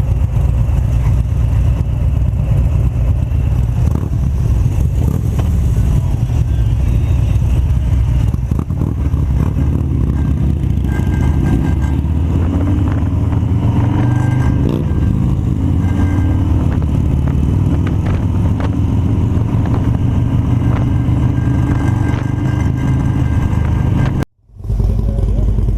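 Harley-Davidson V-twin motorcycle running under way, a steady low engine sound mixed with wind rush on the rider's microphone. The sound cuts out briefly near the end.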